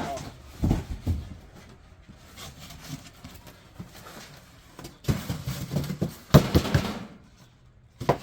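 Irregular knocks and clattering, with a cluster of louder knocks between about five and seven seconds in.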